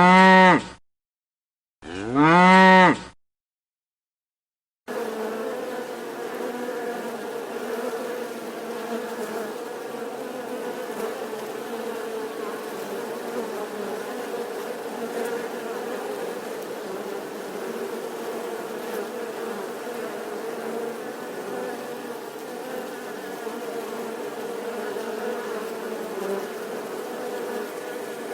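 Two short moos from a cow, each rising and then falling in pitch. After a brief silence, a flying insect begins a steady, droning buzz that goes on unbroken.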